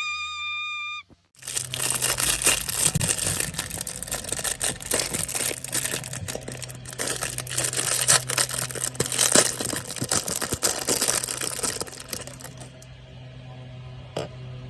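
Crinkly plastic being crinkled and rustled in ASMR fashion, dense with small crackles, for about eleven seconds before it dies down near the end. It opens with a short, steady, single-pitched tone about a second long.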